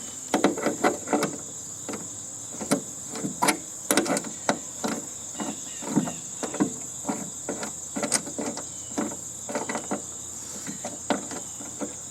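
Irregular clicks, knocks and rattles of hand-tool work on the sheet-metal cabinet of a heating and air-conditioning unit being taken apart for scrap. A steady high insect drone runs behind.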